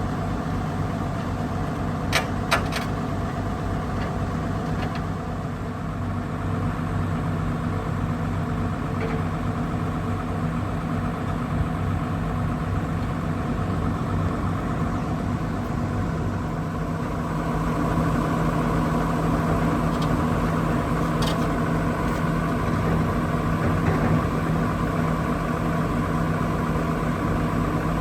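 Diesel engine of a 2001 Dynapac F141C asphalt paver running steadily at idle, with a few short clicks about two seconds in. The engine gets slightly louder a little past halfway.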